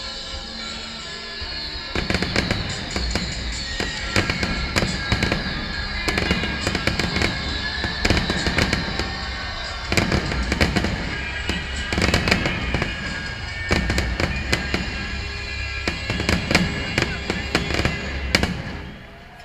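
A rapid barrage of fireworks, many bangs close together and overlapping, over music. The bangs begin about two seconds in and stop just before the end.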